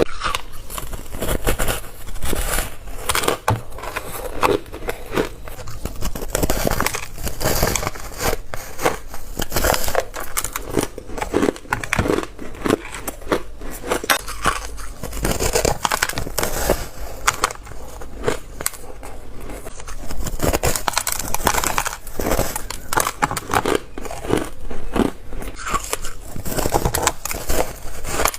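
Close-up biting and crunching of shaved ice and hard ice, a dense run of sharp cracks and crackles with no break.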